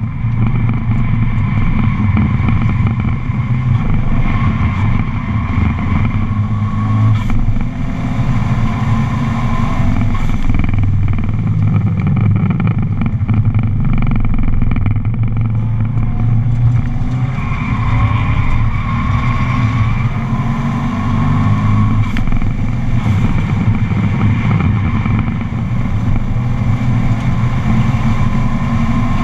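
Subaru's engine and road noise heard from inside the cabin at speed on a race circuit, running loud and steady with a few brief dips, as at lifts of the throttle or gear changes.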